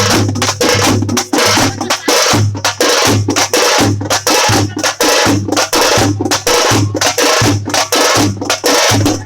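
Tamate frame drums beaten in a fast, steady rhythm, with a deep beat about every two-thirds of a second under rapid sharp strokes.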